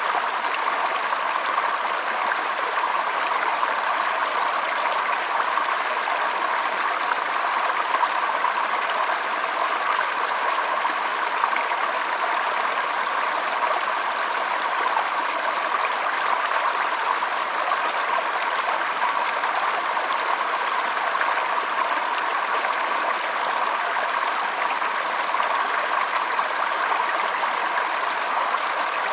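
Shallow stream flowing and trickling steadily, a constant rush of water with no breaks.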